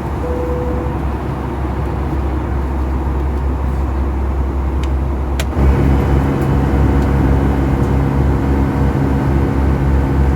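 Steady cabin noise of a Boeing 757-200 climbing out just after takeoff: the engines and rushing air, with a deep rumble. Partway through there is a sharp click, after which a steady hum joins in and the noise gets slightly louder.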